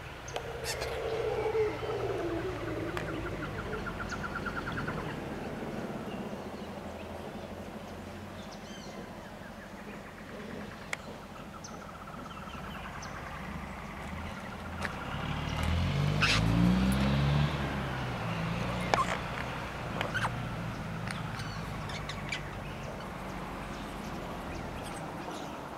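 Outdoor birdsong, short trilled calls, over the steady hum of a motor vehicle engine that grows louder and rises in pitch about two-thirds of the way through as it passes or accelerates, with a few sharp clicks.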